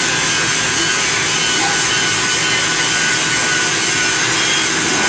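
CNC lathe running while threading a DS38 box connection: a steady, even cutting and machine noise with a faint high whine held throughout.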